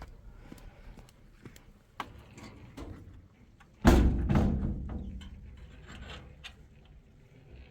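A heavy knock or thud about four seconds in, with a smaller sharp knock about two seconds in and scattered light clicks around them.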